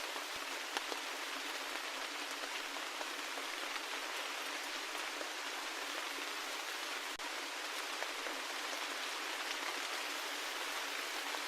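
Steady rain: an even hiss of falling rain, with individual drops ticking here and there and no low rumble.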